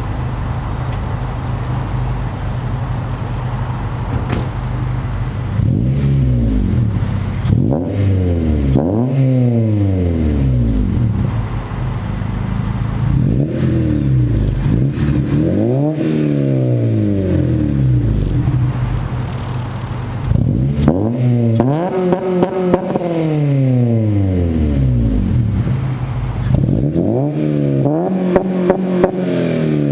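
Acura RSX Type S K-series four-cylinder with an aftermarket header and cat-back exhaust, idling and then free-revved while parked, about six times. Each rev climbs quickly and drops back to idle.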